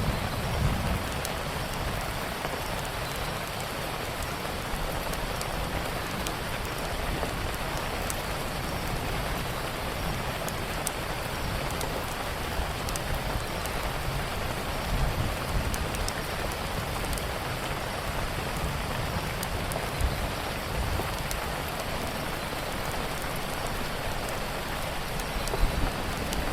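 Steady rain pattering, with scattered small crackles and pops from a wood fire and a low rumble that swells now and then.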